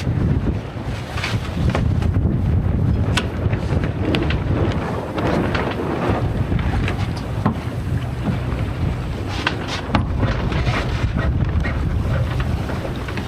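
Wind rumbling and buffeting on the microphone aboard a small sailboat under sail. Scattered short clicks and knocks from the boat's gear run through it.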